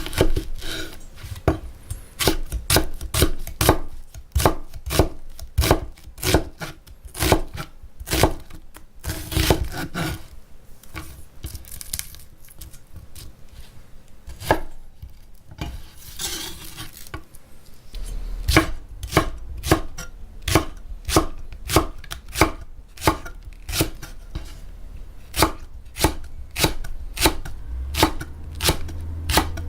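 Kitchen knife chopping on a cutting board in quick, even strokes, about two to three a second, slowing to scattered cuts midway with brief scraping, then picking up again.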